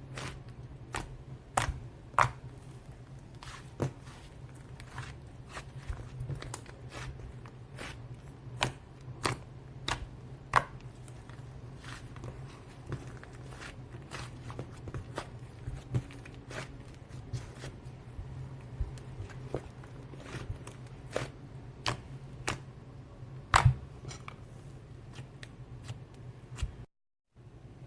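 Irregular sharp clicks and taps, roughly one or two a second, over a steady low hum, with a brief complete dropout near the end.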